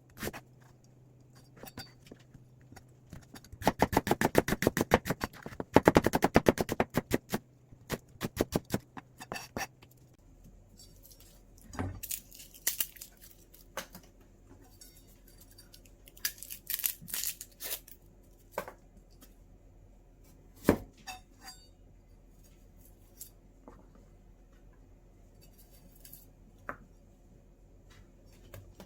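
Kitchen knife chopping fast and evenly on a cutting board for a few seconds, then slowing to separate strokes. After that come scattered knocks and short clattering clusters from the knife and board.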